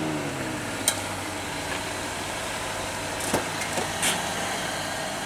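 A car engine drops in pitch as the car rolls to a stop, then idles steadily. A sharp click about a second in and a couple of short knocks around three to four seconds in come as the driver's door is opened.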